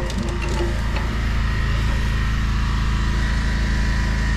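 Pressure washer's engine running steadily, left on while the lance is swapped for the surface cleaner, with a constant hum and a thin high whine above it.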